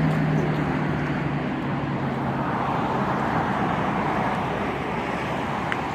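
Steady outdoor vehicle noise: a low engine-like hum that fades out about two and a half seconds in, over an even rush of traffic.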